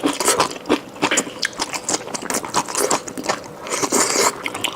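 Close-miked chewing and crunching: crisp bites into a thick gongcai (celtuce stem) stalk taken from the hotpot, with many short, quick crackles.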